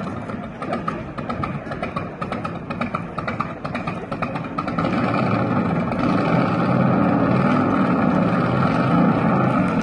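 Motorcycle engine running during a ride, with a fluttering beat at first, then growing louder and steadier about halfway through as it picks up speed.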